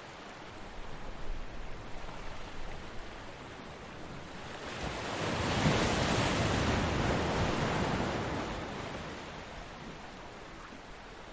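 Ocean waves breaking on a beach. Light, uneven surf early on, then a wave that builds about halfway through, crashes and washes out over several seconds.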